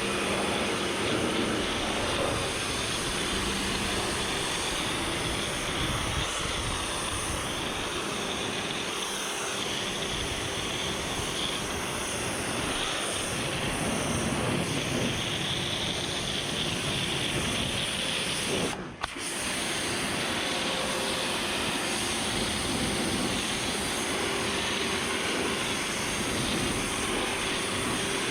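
Kärcher pressure washer spraying, a steady hiss of the water jet over the running pump. It cuts out for a moment about two-thirds of the way through, then starts again.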